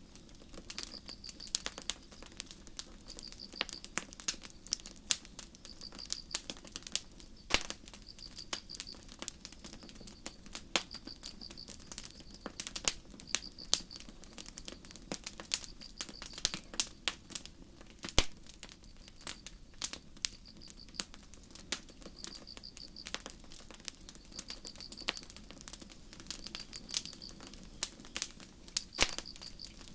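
Campfire crackling with sharp, irregular pops, one of them louder about two-thirds of the way through, over crickets chirping in short pulsed trills about once a second.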